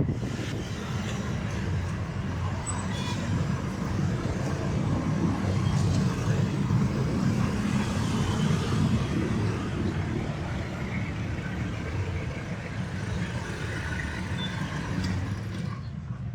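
Road traffic: motor vehicles running, with a steady low rumble and a hiss of passing noise.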